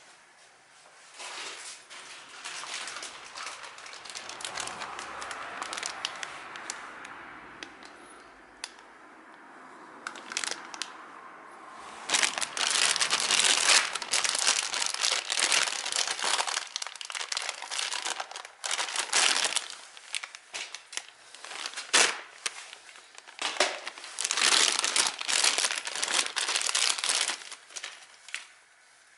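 Irregular crinkling and rustling with many short crackles, like material being crumpled or handled, louder through the second half.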